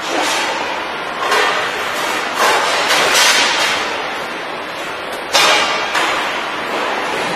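Factory machinery running with a steady noise and repeated loud hissing bursts, five of them a second or more apart, each dying away.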